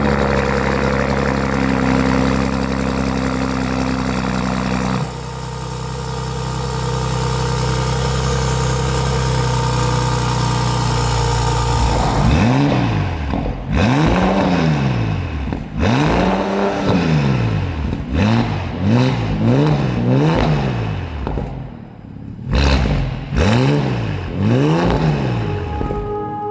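Bentley Bentayga's 6.0-litre twin-turbo W12 engine idling steadily. From about halfway through it is blipped repeatedly, roughly a dozen quick revs that rise and fall in pitch.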